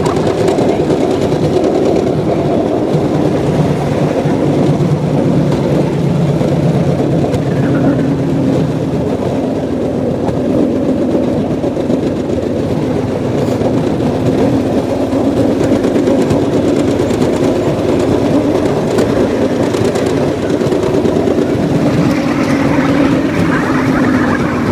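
Cambodian bamboo train (norry) riding along the rails, its small engine running steadily with a pitch that drifts slightly.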